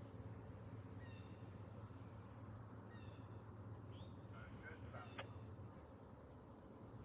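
Faint, steady low rumble of an approaching freight train, easing off near the end. Insects drone steadily and a few short bird chirps come and go.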